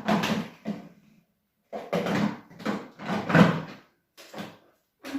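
Plastic parts of a vacuum cleaner being handled and pushed into place: a series of about six short clattering, scraping knocks with brief pauses between them.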